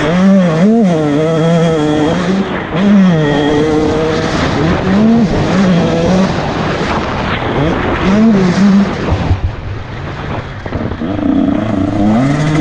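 Motocross bike engine revving hard, its pitch climbing and dropping again and again as the rider works the throttle and shifts gears. About three-quarters of the way through it eases off and goes quieter for a second or two before picking up again.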